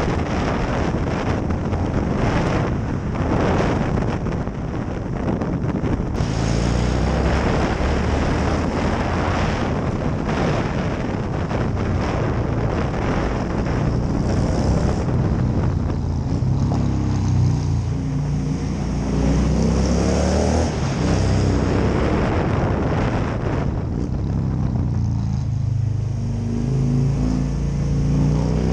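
Motorcycle engine running at road speed, with wind buffeting the microphone. In the second half the engine note climbs and drops back several times as the bike accelerates through the gears.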